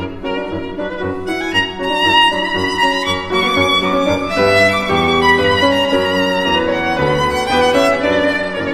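Violin music: a bowed melody of held notes with vibrato over a lower sustained accompaniment.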